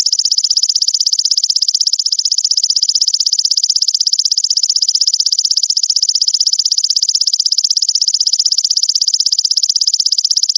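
Belalang mas grasshopper stridulating: a loud, continuous high-pitched trill of rapid, even pulses.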